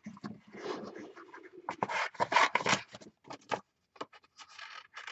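Paper rustling and scraping as craft papers are handled and sorted on the work table, in irregular bursts that are loudest about two seconds in.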